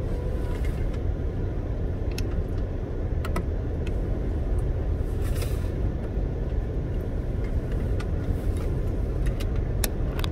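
Car driving along, a steady low road and engine rumble heard from inside the cabin, with a few light clicks and rattles.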